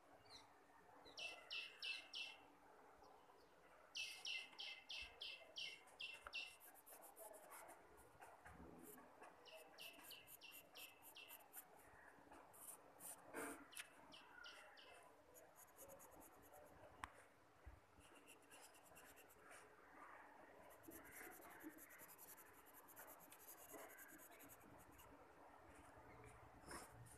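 A small bird chirping in quick runs of several evenly spaced high notes, four runs in the first half. Faint pencil scratching on paper is heard as well, mostly in the second half.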